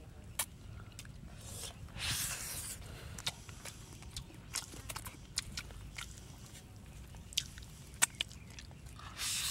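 A person eating cooked rice by hand, with close wet chewing and lip-smacking clicks scattered throughout. A louder rustling, breathy stretch comes about two seconds in and again near the end.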